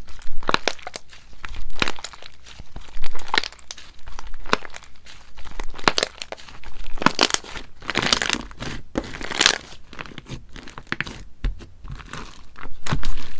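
Slime being squished, poked and stretched by hand, giving irregular short crackles and crinkling squishes.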